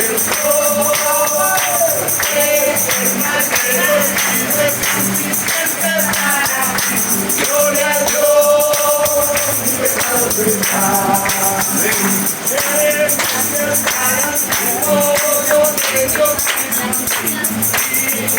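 Worship music: a group of voices singing a hymn over a steady tambourine beat.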